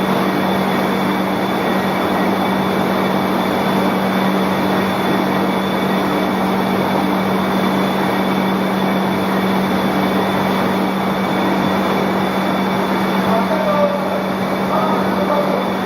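Egg boiling and peeling production line machinery running steadily: a dense mechanical rattle over a constant low hum, with faint steady whines above.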